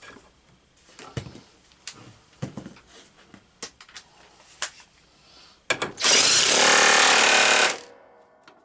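A few light clicks and knocks of tools and parts being handled, then a handheld power tool, a drill or driver, runs in one loud burst of about two seconds near the end.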